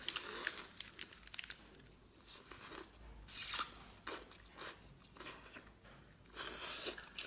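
Close-up biting and chewing of a bundle of green vegetable stalks: irregular crunches with short pauses between them, the loudest a little before halfway.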